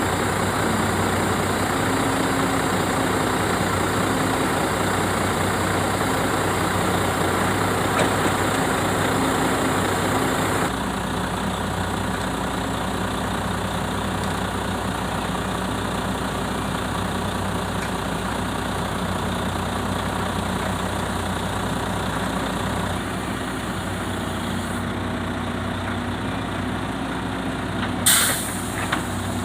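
Heavy diesel engine running steadily at a low idle-like drone, getting slightly quieter about a third of the way in. Near the end comes a short, sharp burst of air hiss.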